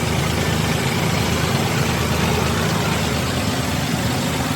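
An engine running at a steady idle: a continuous, even low rumble.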